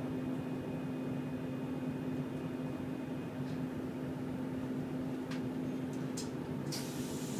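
Steady hum inside a passenger train carriage, with a constant low tone under an even rushing noise and a few short clicks in the last two seconds.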